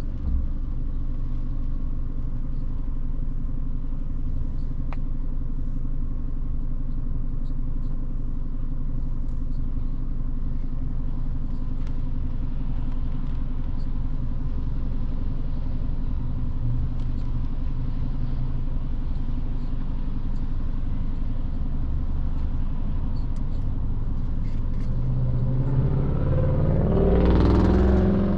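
Car driving on wet roads: steady low engine and tyre noise. Near the end it swells louder for a couple of seconds, rising in pitch.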